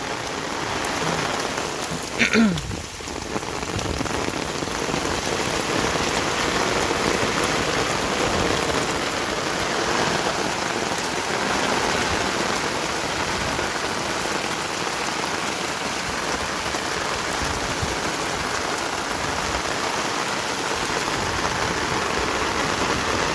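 Heavy rain pouring down, a dense, steady hiss of drops hitting the ground. A short pitched call or cry cuts in briefly about two seconds in.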